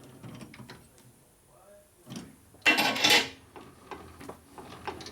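Metal clicks and clanks of a part being clamped in a lathe chuck, with a loud rattling clatter about two and a half seconds in and light clicks around it.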